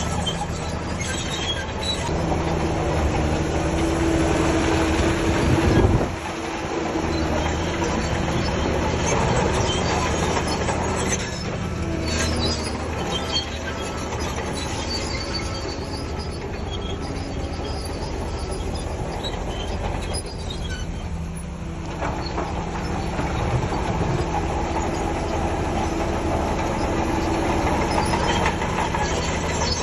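Crawler bulldozer at work: its diesel engine running under load while the steel tracks clank and squeal. The engine swells about six seconds in, then drops off suddenly.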